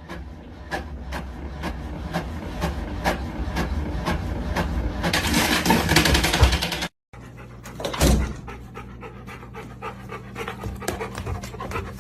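Dog panting in quick, even breaths, about two to three a second. It stops at a sudden cut, and a steady low hum follows with a single thump.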